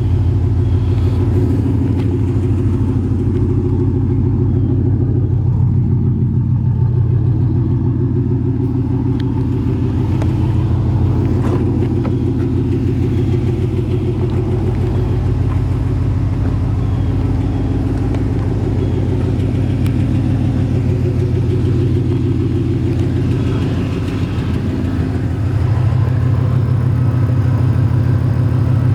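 2008 Shelby GT500's supercharged 5.4-litre V8, fitted with headers, an X-pipe and a Ford Racing exhaust, idling steadily with a deep, even rumble.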